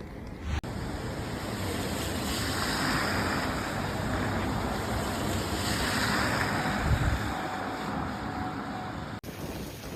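Steady outdoor rushing noise that swells and fades twice, breaking off abruptly about half a second in and again near the end.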